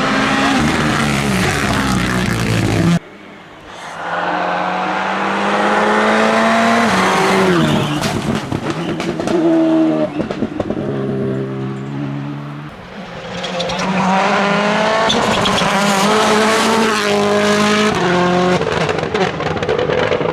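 Rally car engines at full racing effort, revving up through the gears. The pitch drops steeply under braking and downshifts, then climbs again as the car accelerates away. The sound breaks off abruptly about three seconds in and a new pass begins.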